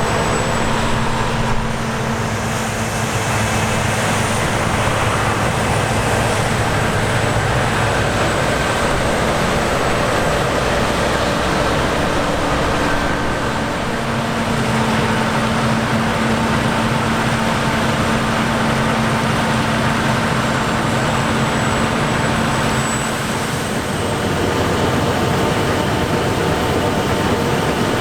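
Heavy harvest machinery running steadily: a dense, continuous diesel-and-mechanical drone with a steady engine hum. A low hum tone holds for several seconds about halfway through.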